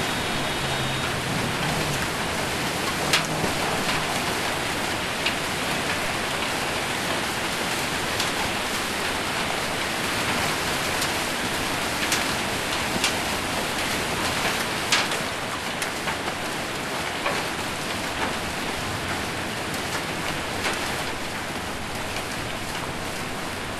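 Rain falling steadily on a metal roof, with scattered sharp knocks of hailstones striking it.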